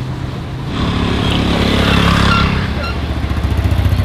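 A small engine running steadily, with a rushing noise swelling over it from about a second in and fading out near three seconds.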